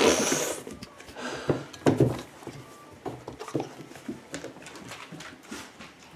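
A dog moving about close by: a loud burst of noise right at the start, a couple of soft thumps, then scattered light clicks.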